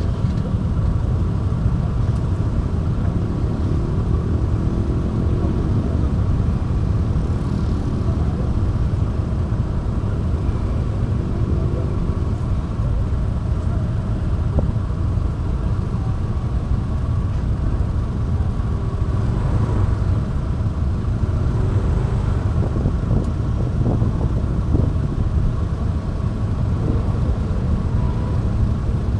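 Riding a motorbike, heard from the action camera on the bike: a steady low rumble of wind and road noise over the bike's engine, whose pitch slides up and down a few times with the throttle, with surrounding road traffic.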